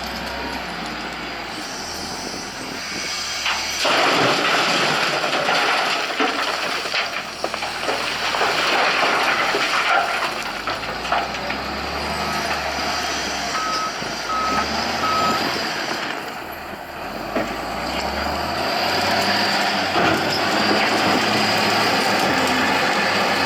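Heavy diesel machinery working under load, growing louder about four seconds in, with a reversing alarm giving a short run of beeps around the middle.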